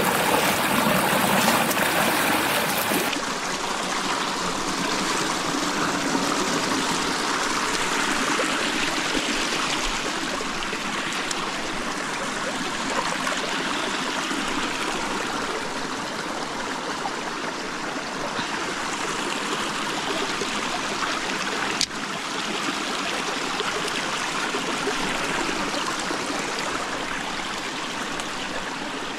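Steady rushing of running water, as from a stream, with a slight change in its sound about three seconds in and a single sharp click about three-quarters of the way through.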